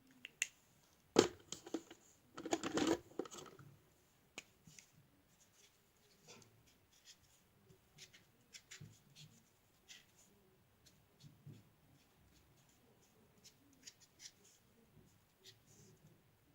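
Felt-tip marker drawing on cardboard: faint, irregular scratchy strokes. A few louder knocks and rustles come in the first few seconds.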